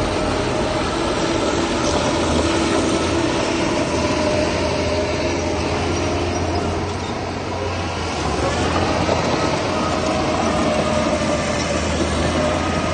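Heavy diesel earthmoving machinery working: a steady low engine drone with thin, held squealing tones above it, dipping briefly about halfway through.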